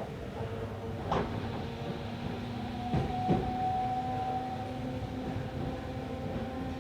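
Tokyo Metro Series 16000 subway car standing at a station platform: the steady hum of its onboard equipment, with a few dull knocks about one and three seconds in.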